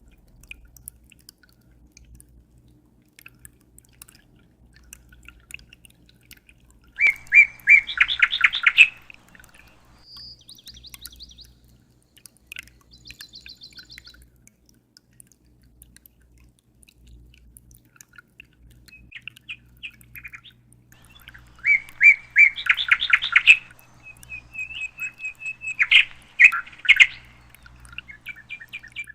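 A songbird singing: two bursts of fast trilled song, one about seven seconds in and a longer one from about twenty-two to twenty-seven seconds, with faint high chirps between them. A low steady hum runs underneath.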